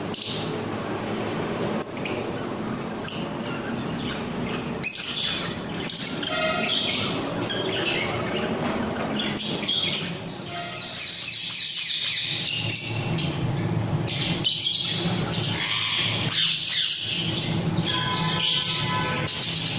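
A mixed flock of small pet parrots (lovebirds, budgies, cockatiels and ringnecks) chirping and squawking together in many overlapping short calls, busier after the first few seconds, over a steady low rumble.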